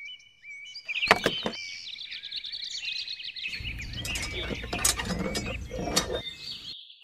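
Small birds chirping over and over. A couple of sharp clicks come about a second in, and a few more light knocks near the end.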